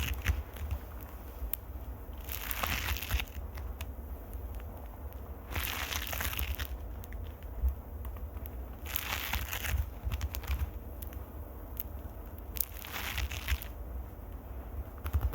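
Fingers scratching on the microphone for ASMR: four swells of scratchy, crinkly rustling about every three seconds, over a steady low rumble of mic handling, with scattered small clicks.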